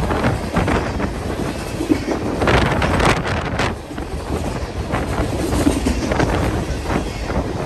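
A train rolling past close by, a steady low rumble with its wheels clicking over the rail joints, and wind buffeting the microphone.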